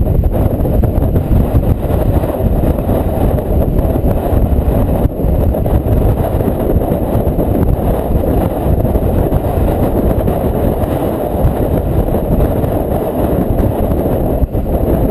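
Strong Bora wind buffeting the microphone: a loud, rough, continuous low rumble.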